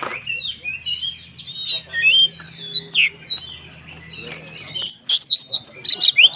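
Oriental magpie-robin (kacer) singing a varied whistled song of quick rising and falling notes. About five seconds in the song turns much louder and busier. A faint low hum runs under the first part and stops there.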